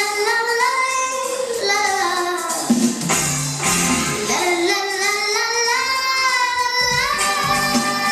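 A child singing a song over a backing track, with long held notes that glide in pitch.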